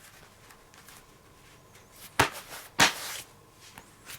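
Leather lace being pulled through the lacing holes of a baseball glove: two quick, loud rasping pulls about half a second apart, a couple of seconds in, with faint handling of the leather around them.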